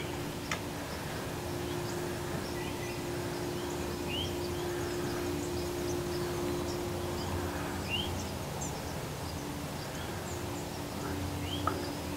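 Birds giving short, rising chirps every few seconds over a steady low hum and rumble, with a sharp click about half a second in and another near the end.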